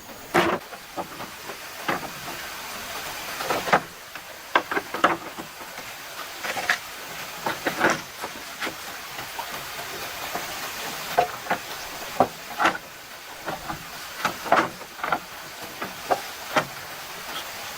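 Irregular sharp knocks and taps, about one or two a second, over the steady rush of a flowing stream.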